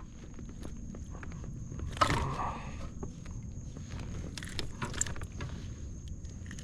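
Scattered light clicks, knocks and rustling of a freshly caught bass being handled and measured in a kayak, with a brief louder rustle about two seconds in, over a faint steady high whine.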